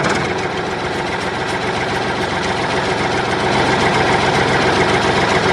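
Tractor engine running steadily at idle, a rapid, even chugging that starts abruptly and grows slightly louder.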